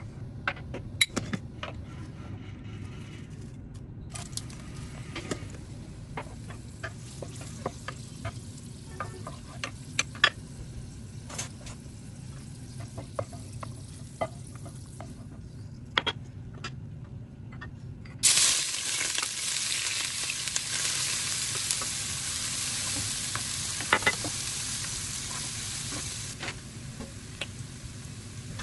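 Dried chilies frying in hot oil in a frying pan, stirred with a wooden spatula that taps and scrapes against the pan. About two-thirds of the way through, chopped onion, garlic and ginger go into the oil and a loud, steady sizzle starts suddenly, easing a little near the end.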